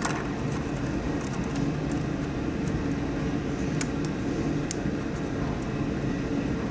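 Steady low hum with a scattering of faint, light clicks from small plastic and wire parts of a humidifier being handled.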